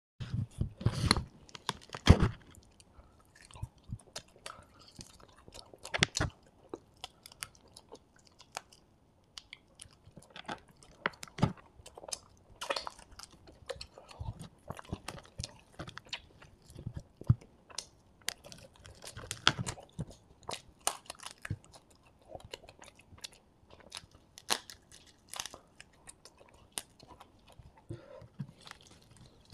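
Close-miked chewing and biting of fried quail eaten by hand, with a steady run of wet mouth clicks and crunches. The loudest bites come in the first two seconds and again about six seconds in.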